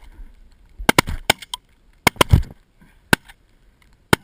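A ragged volley of shotgun shots at geese, about eight sharp reports in quick clusters, several guns firing over one another.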